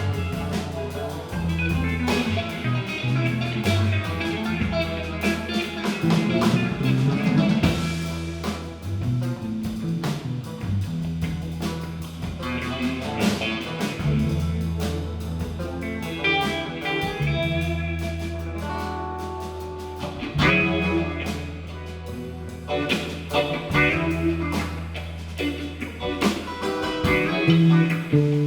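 Live band playing an instrumental passage: guitar over long held bass notes and a drum kit.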